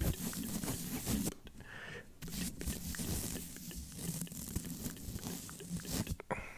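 Microphone brushing and scratching, a dense rustling scrape, layered with slow wet mouth sounds: short clicks and smacks close to the microphone.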